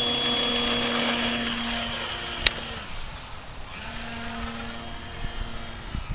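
Electric motor and propeller of a Parkzone T-28 Trojan RC model plane whining at a steady pitch under power for about three seconds. It cuts out, then runs again for about two seconds. A single sharp click comes midway.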